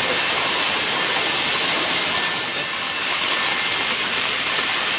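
Heavy rain falling steadily: a loud, even hiss.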